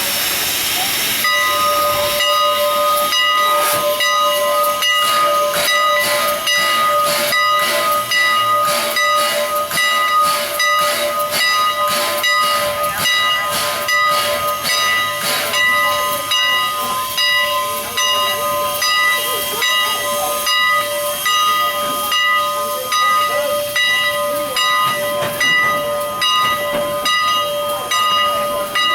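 Steam passenger train running: a steady high whine of several tones held together over a hiss and a continual irregular clatter of clicks, which sets in after a burst of hissing about a second in.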